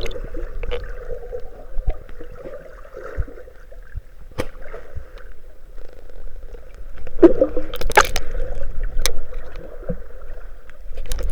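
Seawater sloshing and gurgling, with scattered clicks and small splashes and a louder splash about eight seconds in.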